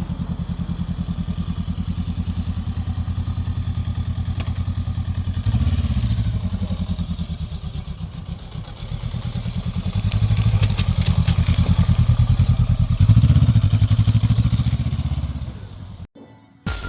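A motorcycle engine running at a steady, pulsing idle, blipped up in revs a few times, about five seconds in and again around ten and thirteen seconds. It cuts off abruptly shortly before the end.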